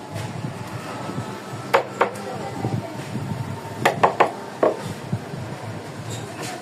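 A handful of sharp knocks on wood, two about two seconds in and a quick cluster of three or four around four seconds, over a steady low rumble of workshop noise.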